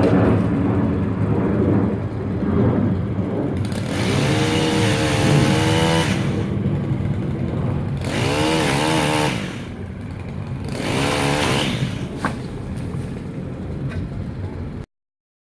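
Chainsaw engine running, its pitch rising and wavering as the throttle is opened twice, for about two seconds each time, then cutting off suddenly near the end.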